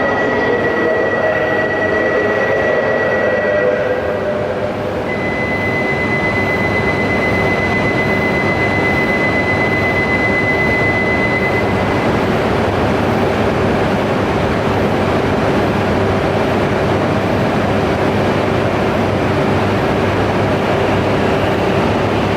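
Shinkansen bullet train running past the platform: a steady loud rush of running noise. A high steady whine sounds through the first half, breaking off briefly about four seconds in, and a lower steady tone comes in for the second half.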